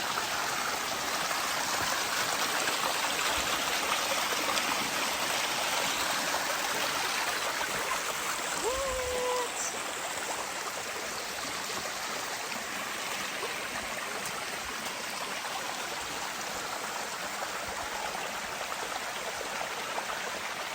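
Small waterfall and rain-fed creek running, a steady rush of water. A brief pitched sound with a low thump comes about nine seconds in.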